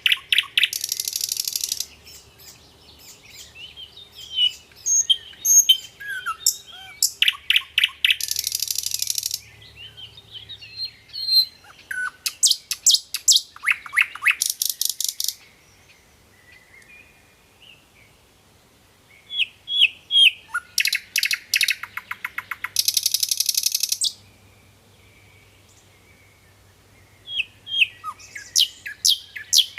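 Common nightingale singing: about five loud phrases of rapidly repeated notes and harsh, buzzy rattles, separated by pauses of a few seconds.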